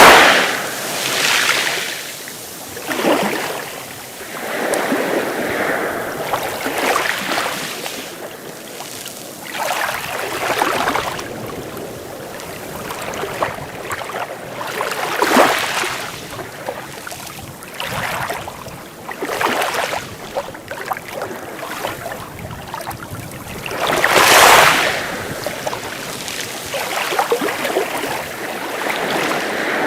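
Sea waves breaking and washing onto the shore in irregular surges every few seconds, the biggest about 24 seconds in.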